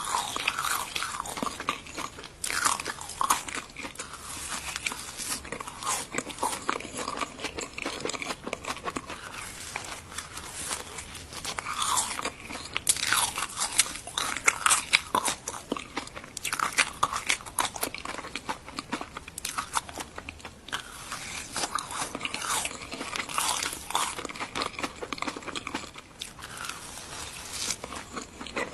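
Dense crackling and crunching: many small crisp clicks packed close together, swelling every second or two into louder bursts.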